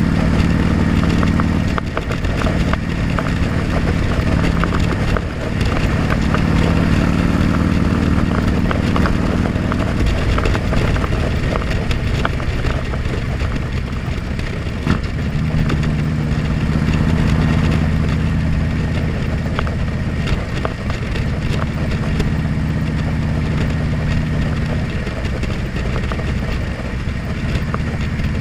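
Motorcycle engine running on the move, heard from a helmet-mounted camera, its note strong in stretches and falling back a few times, over a steady rush of wind noise.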